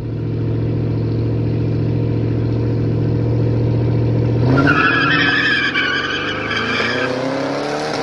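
A car engine running at a steady pitch. About four and a half seconds in it pulls away hard, its pitch climbing, with tires squealing for a couple of seconds.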